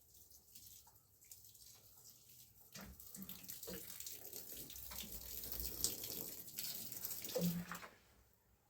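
Water running or being poured, growing louder from about three seconds in, with a few light knocks, then stopping shortly before the end.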